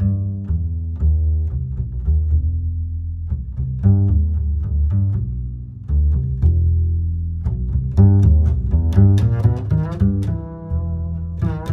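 Plucked guitar music, a run of ringing notes over deep bass notes.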